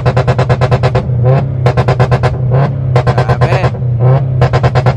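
Car engine held at high revs, stuttering rapidly in short bursts of under a second with brief gaps between them.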